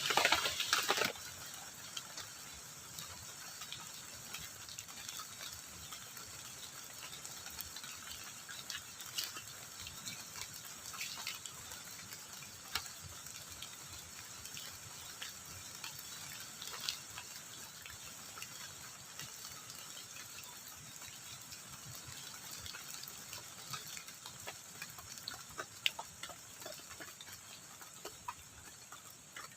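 Steady rain with scattered drips and patters landing on the shelter, after a brief louder rustling noise in the first second.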